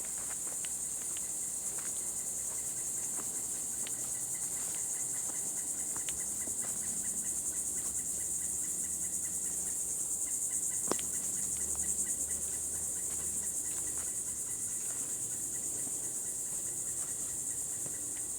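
Chorus of insects such as crickets giving a steady, unbroken high-pitched trill, with faint scattered clicks underneath and one sharper click about eleven seconds in.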